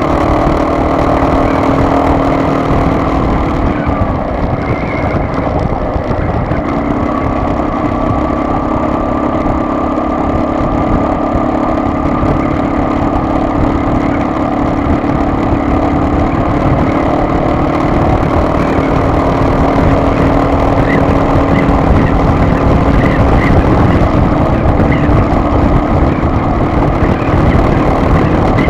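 Car on the move: steady engine hum over road and tyre noise, the engine note shifting in pitch about four seconds in and again around seven seconds.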